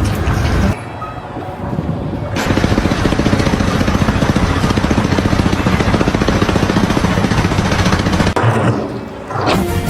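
A motor running with a fast, even pulse for several seconds, which cuts off suddenly.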